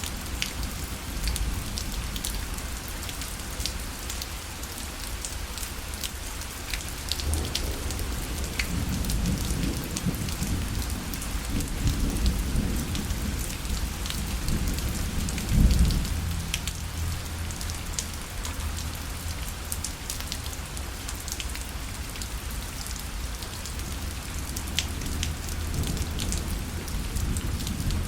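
Rain falling on a parasol, a steady hiss with individual drops ticking on the fabric. A low thunder rumble builds about a quarter of the way in, peaks a little past the middle, then fades.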